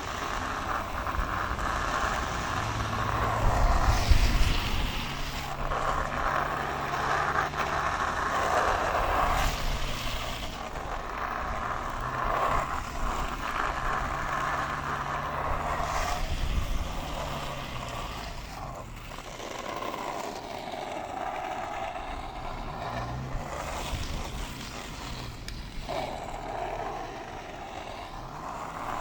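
65mm Banana Milkshake urethane longboard wheels rolling fast down asphalt: a continuous road roar with a low hum that shifts in pitch, and wind rushing over the microphone. It is a little louder a few seconds in and eases somewhat in the second half.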